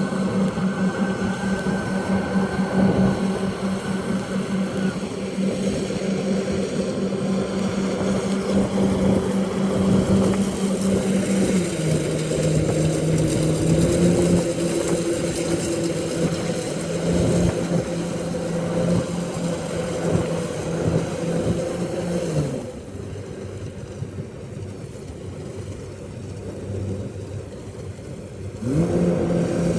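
Rice combine harvester's engine running under load. Its pitch steps down about twelve seconds in, the machine goes quieter and lower a little past the middle, then revs back up near the end.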